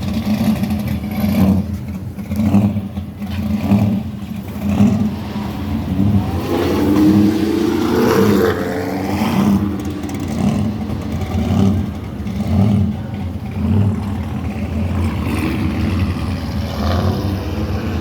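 Muscle car V8 engines rumbling low and unevenly as the cars drive out one after another. About six to nine seconds in, one engine revs up and back down as it goes by.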